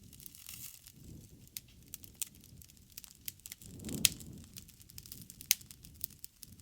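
Bonfire of burning wood crackling, with many small sharp pops over a low rumble of flame. A louder pop comes about four seconds in as the rumble swells, and another sharp pop follows about a second and a half later.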